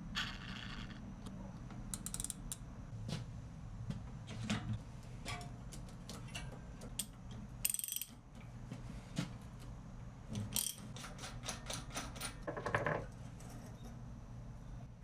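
Faint, scattered metal clicks and ticks from a bicycle cassette's sprockets and tools being handled during disassembly, with a short run of ratcheting clicks near the end.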